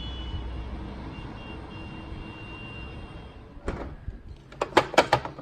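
Steady hissing background noise with a low rumble, then a quick run of sharp clicks and knocks starting a little before four seconds in.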